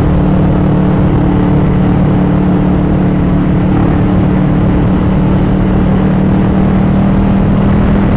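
Motorcycle engine running at a steady cruise, its note holding even, under heavy wind rumble on the rider's microphone.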